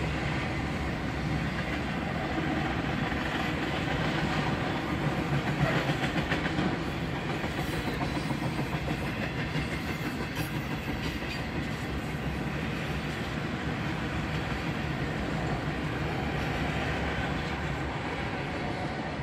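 A long freight train rolling steadily past, its cars running over the rails, heard from inside a parked car.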